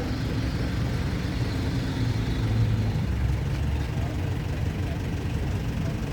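A car engine idling steadily close by, a low even rumble.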